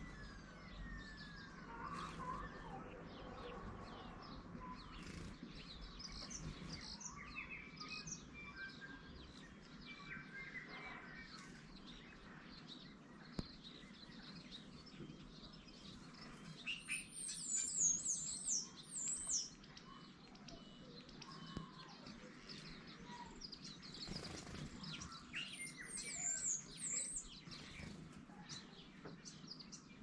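Small garden birds chirping and calling around a feeder, with a louder run of rapid high twittering a little past halfway and another near the end, over a faint low background rumble.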